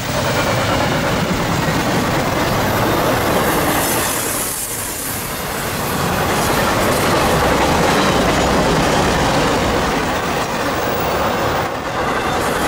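Train cars rolling past on the rails: a loud, steady noise of wheels on track that eases briefly about four to five seconds in.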